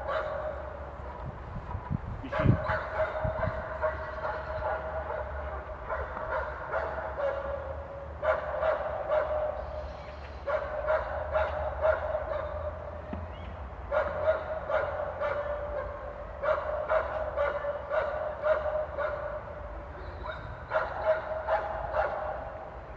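Dogs barking and yelping in repeated bouts of a few seconds, with short pauses between the bouts.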